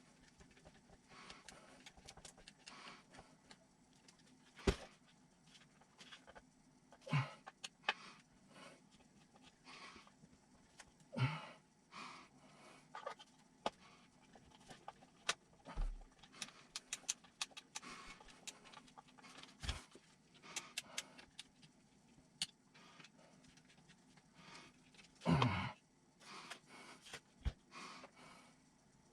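Small plastic and metal parts and hand tools being handled during RC kit assembly: irregular light clicks, taps and rustles, with a few louder knocks about 5, 7, 11 and 25 seconds in.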